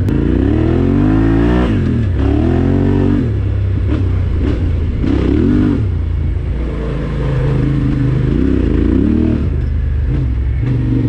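Yamaha Ténéré 700 adventure motorcycle's parallel-twin engine, heard from on the bike, revving up and down repeatedly as the throttle is opened and closed through a run of rising and falling pitch swells.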